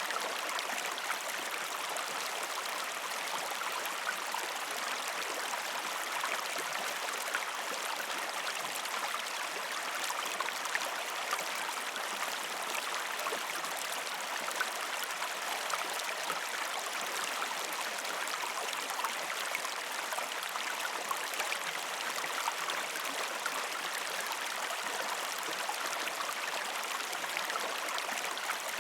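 A shallow river stream flowing over rocks: a steady rush of water broken by many small splashes and gurgles.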